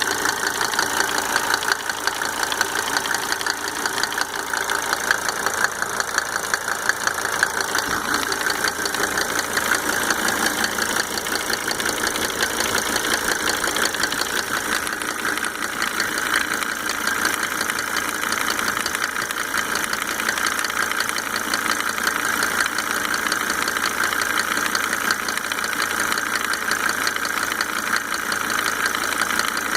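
Mercedes-Benz W124 2.5-litre five-cylinder diesel engine running at a steady speed with a fast, even ticking. The owner can't pin down the tick, which is still there after five rebuilt injectors with Monarch nozzles were fitted.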